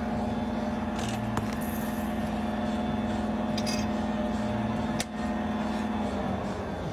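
A machine running with a steady mechanical hum that stops about six seconds in, with a few light clicks and one sharp click about five seconds in.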